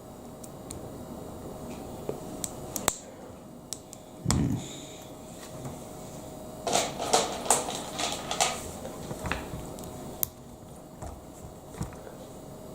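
Plastic Lego Technic parts clicking and rattling as they are handled and fitted together: scattered single clicks, a dull thump about four seconds in, and a longer run of rattling clicks around the middle.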